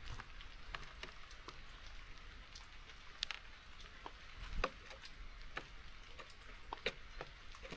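Light rain falling, a steady soft hiss with irregular sharp taps of drops, the loudest about four and a half seconds in.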